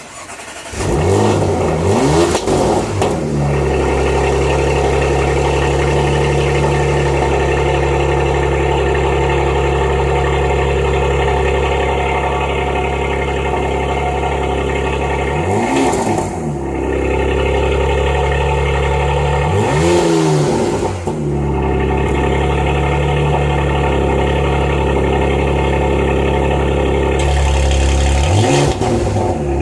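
2022 Porsche Macan S twin-turbo V6 cold start: the engine catches and flares up in revs, then settles to a steady cold idle. It is blipped briefly twice around the middle and several more times near the end, each time rising and falling in pitch.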